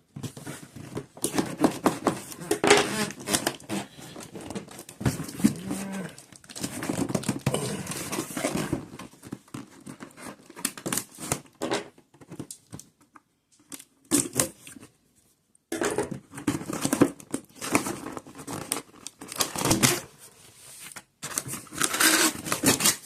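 A shipping package being torn and crinkled open by hand: irregular rustling and ripping in spurts, with short pauses between.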